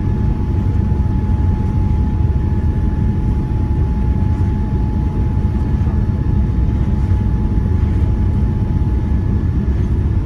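Steady cabin noise of a Boeing 787-9 airliner in flight: a deep, even rumble of engines and airflow, with a thin steady whine held throughout.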